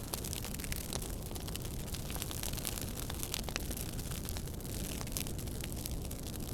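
Wood fire crackling steadily: many small irregular pops and snaps over a low rumble and hiss of burning.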